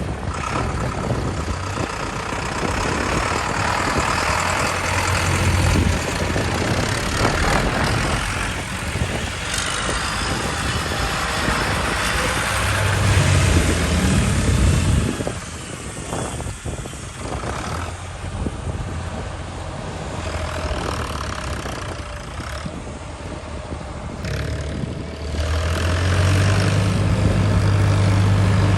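Tractors driving past one after another, their engines running. One engine rises in pitch as it speeds up around the middle, and a louder engine runs steadily near the end.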